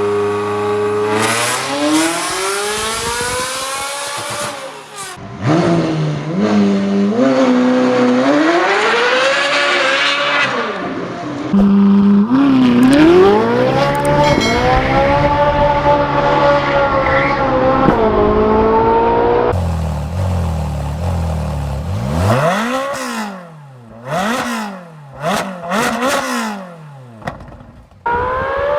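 Ferrari sports-car engines with loud exhausts, in a string of short clips that cut abruptly from one to the next. They accelerate with rising pitch and step down at gear changes, then give four or five quick sharp revs near the end.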